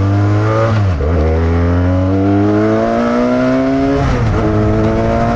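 Benelli touring motorcycle's engine pulling under acceleration, its pitch climbing steadily, with short dips for gear shifts about a second in and again at about four seconds.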